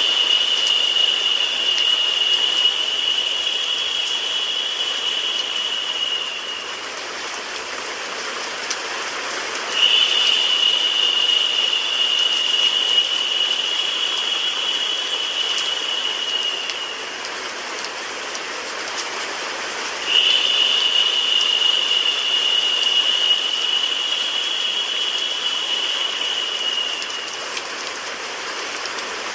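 Steady rain hiss blended with white noise, with faint scattered drop ticks. A narrow high-pitched hiss joins in three times, each time starting abruptly, lasting about seven seconds, then fading, in a loop that repeats about every ten seconds.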